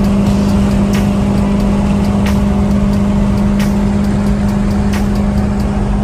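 2008 BMW E90 M3's 4.0-litre V8 droning at a steady pitch at constant highway cruising speed, heard from inside the cabin over tyre and road rumble, with a few light ticks.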